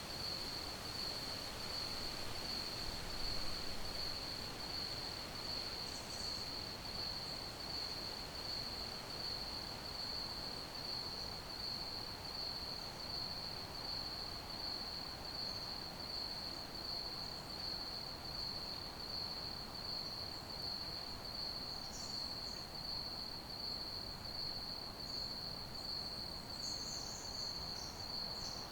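Crickets chirping in a steady, even pulsing trill over a soft background hiss, with a few fainter higher chirps near the end.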